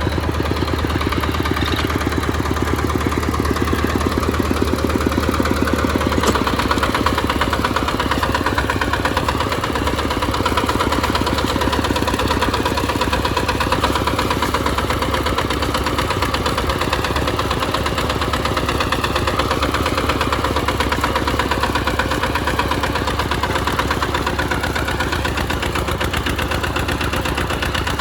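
RT140 Plus single-cylinder diesel engine running steadily with a rapid even chugging while pulling a plow through mud. The low end of the sound changes slightly about six seconds in.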